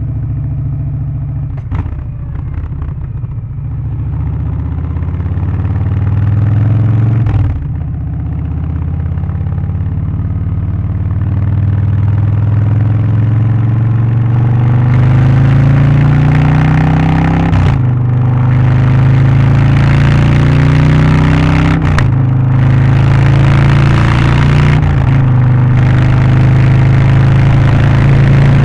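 Harley-Davidson Low Rider ST's Milwaukee-Eight 117 V-twin, on a Stage 1 tune with aftermarket exhaust and air filter, accelerating through the gears. The engine note climbs, then drops at each of about four upshifts.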